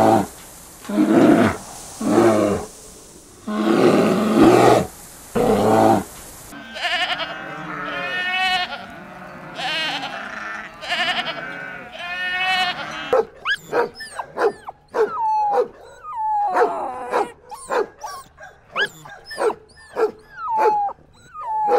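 A run of animal calls. First come several deep, loud calls about a second apart. Goats then bleat with wavering, quavering voices, overlapping one another. Near the end a young dog gives a quick series of short, high barks that fall in pitch.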